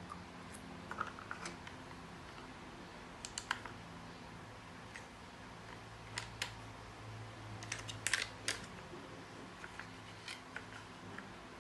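Scattered light clicks and taps, a few at a time with a busier cluster about eight seconds in, over a faint steady low hum.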